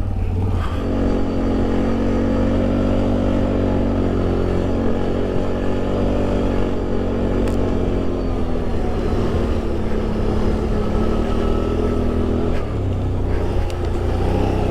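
ATV engine pulling steadily under load up a steep climb. Its pitch eases slightly lower partway through and steps back up near the end.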